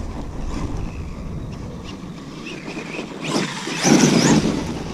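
Kyosho USA-1 Electric Edition RC monster truck running on a 4S battery, louder for about a second just after three seconds in.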